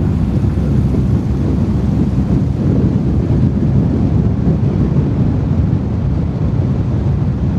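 Ford 17M's 1.7-litre V4 engine running steadily while the car drives along, mixed with heavy wind and road rumble on an outside-mounted microphone.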